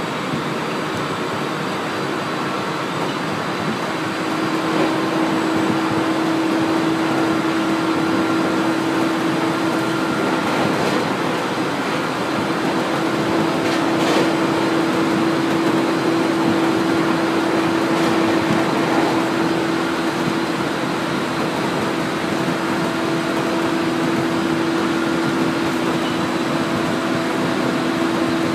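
701 series electric train running at speed, heard from inside the carriage: steady running noise of wheels on the rails. A steady hum comes in about four seconds in and holds to the end.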